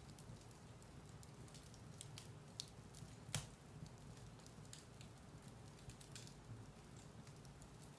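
Firewood burning in a fireplace: a low, steady rumble of flames with scattered sharp crackles and pops, the loudest pop about three and a half seconds in.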